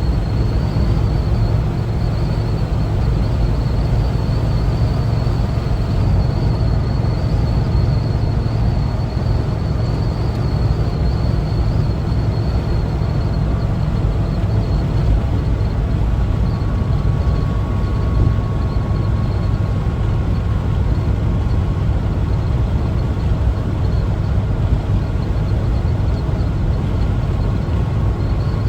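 1974 Volkswagen Westfalia camper van underway: a steady low drone of its air-cooled engine and road noise, with a faint thin high whine above it.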